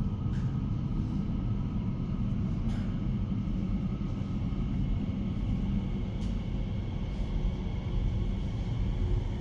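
Elizabeth line Class 345 train running, a steady low rumble with a faint high whine above it and a few light clicks.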